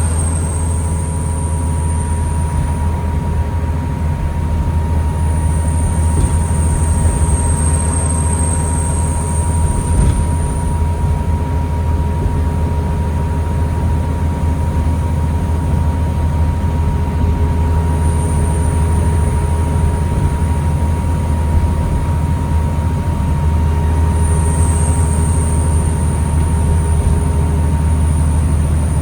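Inside a New Flyer D40LFR diesel transit bus: the engine runs with a steady low rumble and a steady mid-pitched tone, while a thin, very high whine fades in and out several times, near the start, for several seconds just after the fifth second, and again for most of the last eleven seconds.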